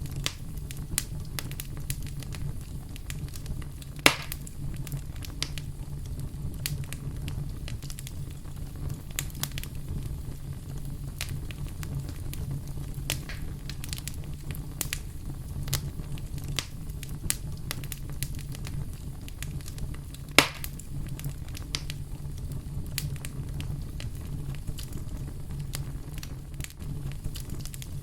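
Wood campfire crackling, with many small sharp pops scattered through it and two louder pops, one about four seconds in and one about twenty seconds in, over a steady low rumble.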